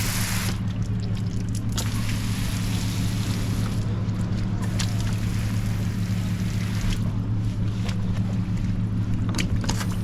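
Car engine running with a steady low hum, and a hiss above it that rises and falls.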